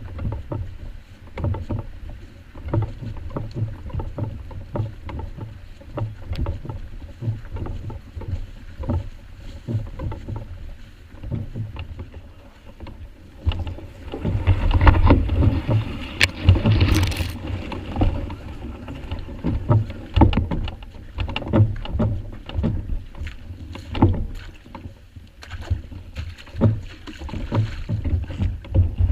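A canoe being paddled on open water: irregular splashes of paddle strokes and water slapping against the hull, with a louder rush of noise about halfway through.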